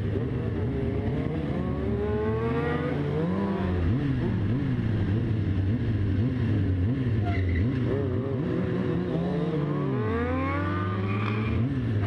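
Motorcycle engine revving hard, its pitch climbing and falling again and again as the throttle is worked and the gears change, with longer rising sweeps a few seconds in and near the end.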